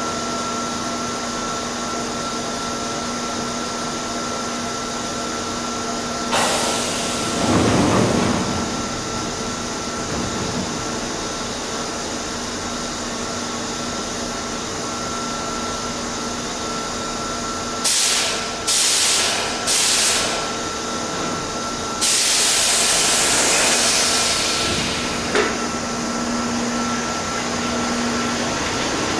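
Steady hum of an underground station with a train standing at the platform, broken by bursts of compressed-air hissing from the train: one about six seconds in, three short ones in quick succession past the middle, then a longer hiss near the end.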